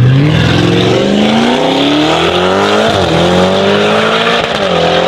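A high-performance car's engine accelerating hard, its pitch climbing through the revs, with a quick upshift about three seconds in and another near the end.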